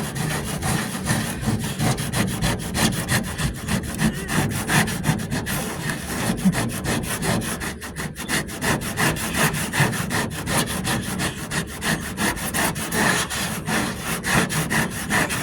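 Coarse 40-grit abrasive being worked by hand over partly cured fibreglass-reinforced body filler on a truck door. The rasping comes in fast back-and-forth strokes, several a second, shaping the filler while it is still soft.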